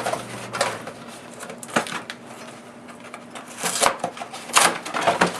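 The cardboard end of a soda-can box being pulled and torn open: a few short, sharp rips and scrapes of paperboard with handling rustle between them.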